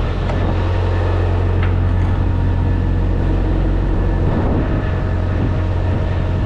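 Steady low diesel engine drone at a truck-stop fuel island, with a light click about a second and a half in.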